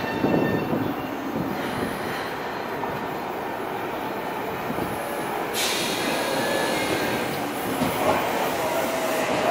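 Tobu Railway commuter electric train pulling into the platform. Rail and wheel noise builds, turning louder and brighter about five and a half seconds in as the front cars draw level.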